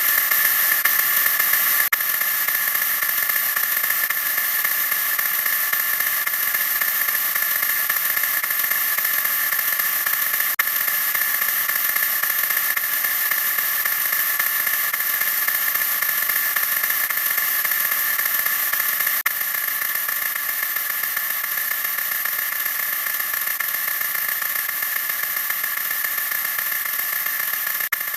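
A "wha wha" sound effect sped up so far that it has become a steady high-pitched whine over hiss. It shifts slightly three times, at about two, ten and nineteen seconds in.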